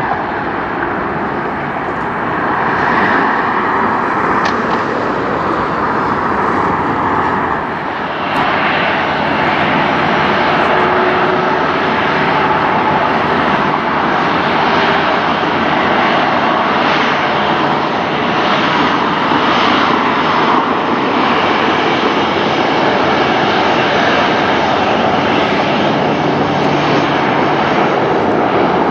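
Jet airliner's engines at takeoff power: a loud, steady rush of noise that dips briefly about eight seconds in, then holds.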